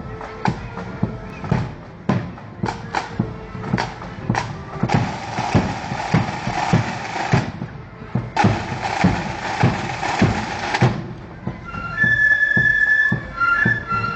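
Marching flute band's drums beating a steady march, about two strokes a second, broken by two long drum rolls. About twelve seconds in the flutes come in, like a drum roll-off leading the band into its tune.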